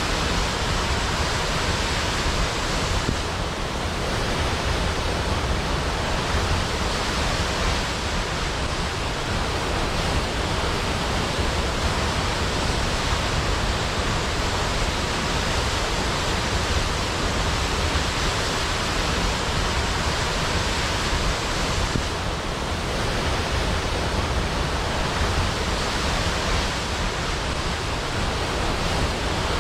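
A large waterfall's steady rush of falling water, an even, unbroken roar of water noise.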